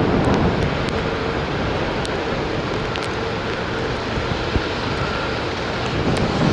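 Jet airliner engines running with a faint steady whine, mixed with wind rumbling on the microphone.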